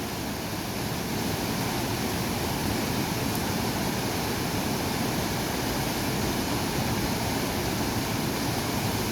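Fast-flowing river in monsoon flood, a steady rush of water.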